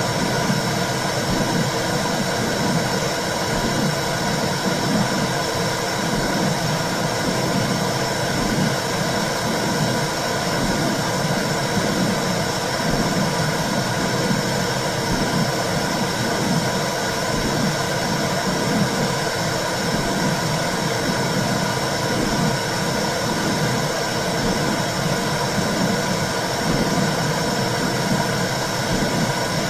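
Womb sound for soothing a baby: a steady whooshing rush with a regular low pulse, the heartbeat-like throb of blood flow as heard inside the uterus.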